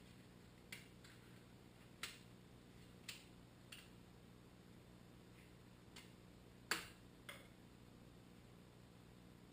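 Seven faint, sharp clicks and taps at irregular intervals, the loudest about two-thirds of the way through, over near-silent room tone.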